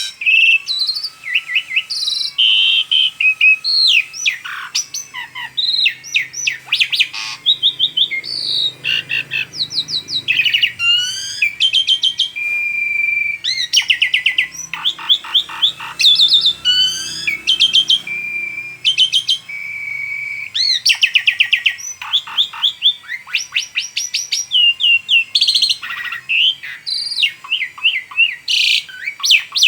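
Asian pied starling (jalak suren) singing a long, varied song with hardly a pause: fast trills of repeated notes, sliding calls, sharp chatters and a few held whistles.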